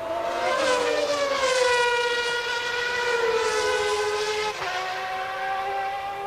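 1992 Formula One car engine at high revs, a shrill multi-toned whine. Its pitch slides slowly downward for about four seconds, then jumps sharply higher a little past halfway and holds.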